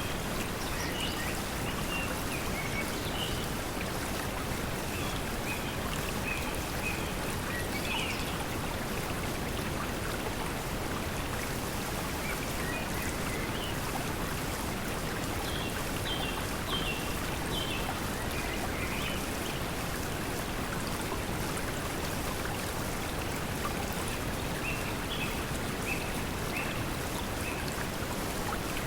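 Steady pink noise mixed with the sound of flowing water, with birds chirping in short runs of high notes near the start, in the middle, and again near the end.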